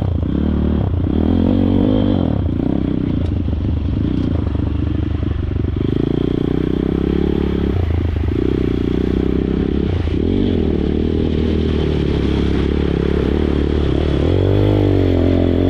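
Pit bike's small single-cylinder engine revving up and down under load as it is ridden through mud, its pitch rising and falling, with a higher rev near the end.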